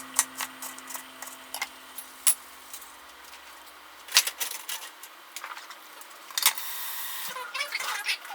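Kitchen prep sounds: scattered sharp clinks and knocks of utensils and dishes, with a short rustling hiss about six and a half seconds in.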